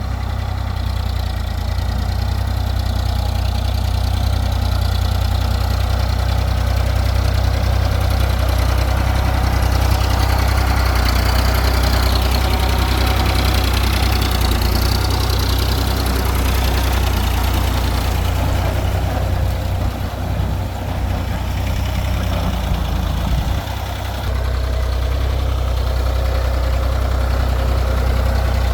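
Sonalika tractor's diesel engine running steadily with a deep, continuous drone, easing briefly a little past two-thirds of the way through.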